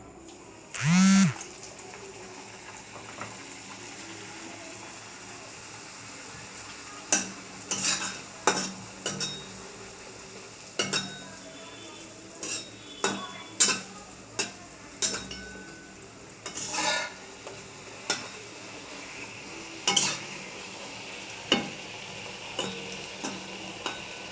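Food sizzling in hot oil in a pan, with a spatula clattering against the metal pan again and again as it is stirred. A brief loud pitched sound rises and falls about a second in.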